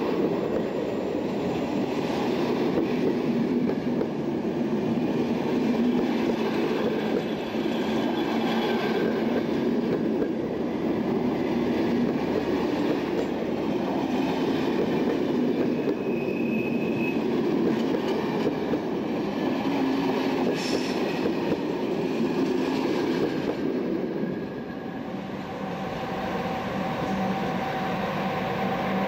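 Long passenger train of double-deck car-carrier wagons and couchette coaches running past close by: a steady rush of wheels on rail. Near the end the sound drops, and a steady whine comes in as an SNCB class 20 electric locomotive approaches.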